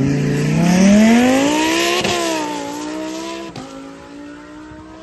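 A performance car launching hard from a standstill: engine revs climb steeply for about two seconds, then two quick upshifts follow as it pulls away and fades.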